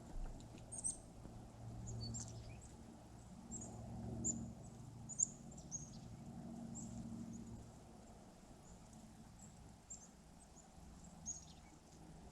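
Small birds making short, high chirps scattered throughout, over a faint low hum that fades in the second half.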